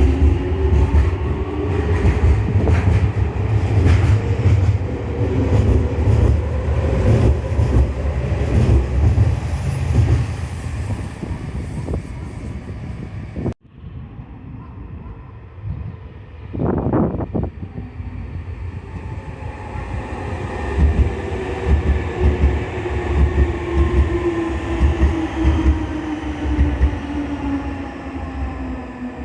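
Nankai Koya Line electric trains running at the station. Wheels click over rail joints and the traction motors whine, changing pitch as the trains speed up and slow down. About halfway through the sound cuts off abruptly to a second train, with a short higher-pitched sound soon after.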